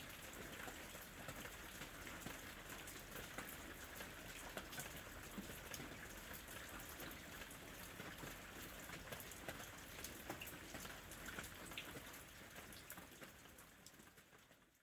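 Steady rain falling, a soft even hiss dotted with individual drop patters, fading out over the last couple of seconds.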